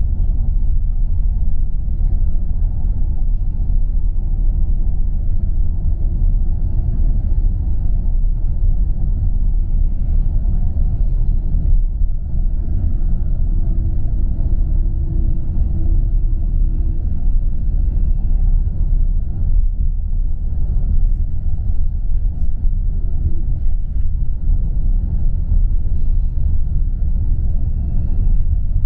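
Steady low rumble of a coach driving on the road, heard inside the passenger cabin: engine and tyre noise, with a faint hum in the middle.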